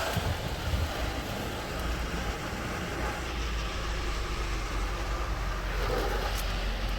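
Belanger FreeStyler automatic car wash running: steady hiss of water spray over a low machine rumble.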